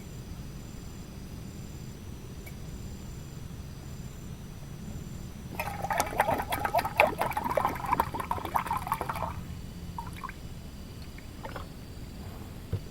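Liquid pouring or splashing for about four seconds around the middle, crackly and dense, over a steady low background rumble.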